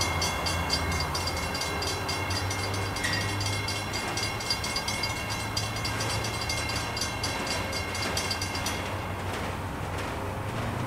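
Freight train cars rolling past, their wheels clicking rapidly and evenly over the rail joints, over a steady low hum; the clicking stops about nine seconds in.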